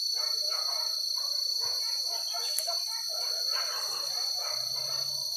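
A pack of hunting dogs yelping and baying, several voices overlapping without a break. A steady high-pitched insect drone runs underneath.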